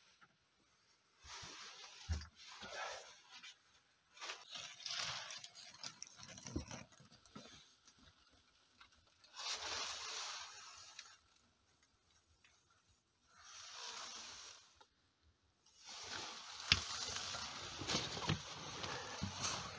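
Intermittent rustling and scraping as a person handles and shifts materials, in bursts of a second or two, with a few short knocks between them.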